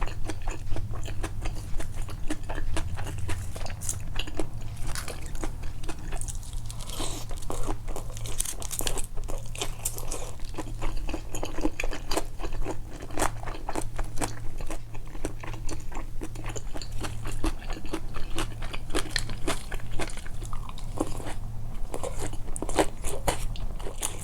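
Close-miked eating of tempura: dense crunching bites and chewing clicks, over a low steady hum.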